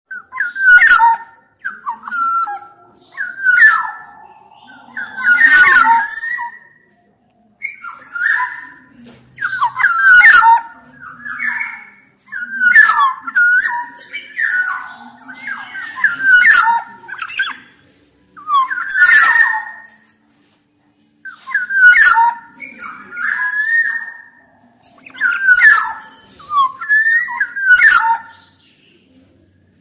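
Black-naped oriole (kepodang emas) in full song, giving short phrases of gliding whistled notes every second or two, with brief pauses about seven and twenty seconds in.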